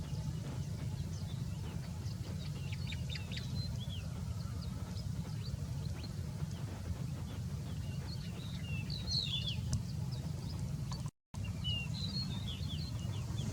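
Small birds chirping in short, scattered high calls, with a few quick sweeping notes, over a steady low rumble.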